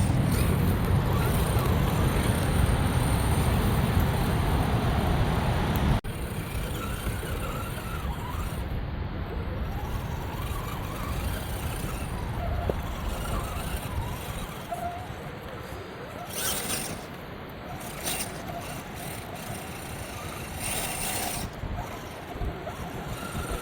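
Redcat Gen 7 radio-controlled crawler truck driving over a trail, its motor and drivetrain running with tyres on the ground. It is loud and rumbling for about six seconds, then cuts suddenly to quieter running, with two short hissing bursts later on.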